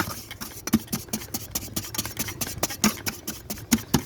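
A hand tool scraping against brick and mortar in short, irregular strokes, two or three a second, as a mason works the mortar of a brick repair.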